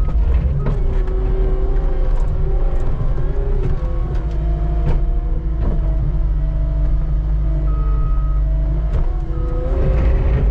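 Skid steer running under load while scraping snow, its engine a heavy steady drone with a whine that shifts in pitch as it works, and scattered sharp knocks from the bucket and machine.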